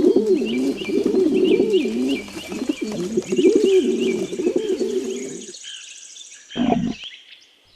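Pigeons cooing in a run of low, rising-and-falling coos that stop about five and a half seconds in, with higher repeated chirping behind them.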